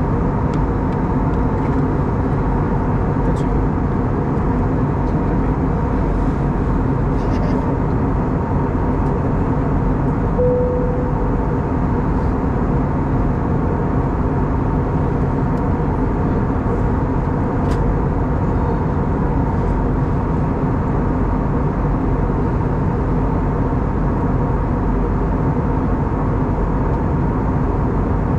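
Steady cabin noise of an Airbus A320neo airliner in cruise: a constant rush of airflow and engine noise with a steady multi-tone hum. A short tone sounds briefly about ten seconds in.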